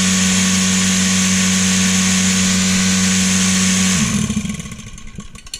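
Rotary-vane vacuum pump of a milking machine running steadily on test after a repair that fitted new vanes, with a steady electric-motor hum. About four seconds in it is switched off and winds down, its pitch falling as it fades.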